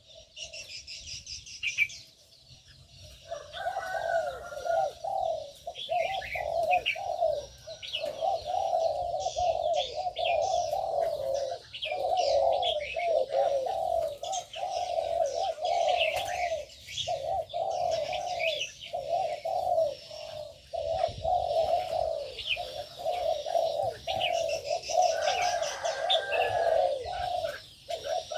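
Doves cooing over and over, starting about three seconds in, over a steady chatter of high chirps from small aviary birds.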